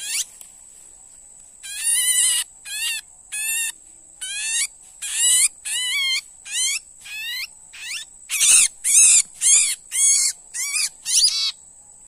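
Small bird, a 'burung pelanduk', giving rapid harsh squawking calls, about two a second, while held in the hand. There is a short gap near the start, and a thin steady high tone runs beneath the calls.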